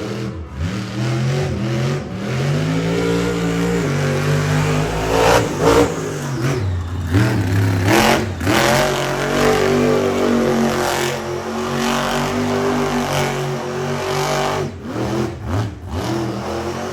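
Monster truck engine revving hard, its pitch rising and falling again and again as the throttle is worked through a freestyle run. A few sharp bangs about five and eight seconds in.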